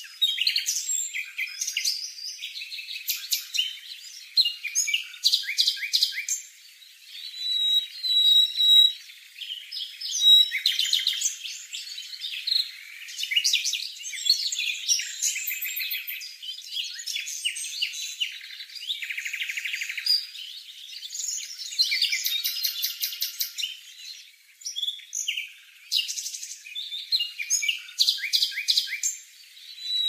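Begging and contact calls of a cuckoo fledgling and the small host bird feeding it: runs of rapid, high-pitched chirps repeated over and over, with a few short clear whistled notes.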